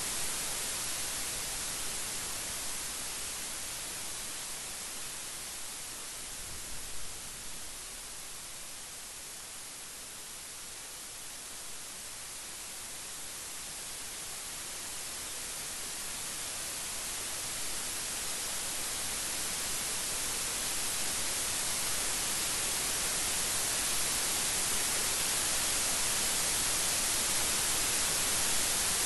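Steady rain, an even hiss with no thunder. It eases a little about a third of the way in, then swells louder toward the end.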